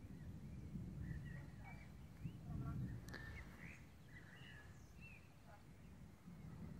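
Faint birdsong: several birds giving short chirps and calls, over a low rumble. One sharp click about three seconds in.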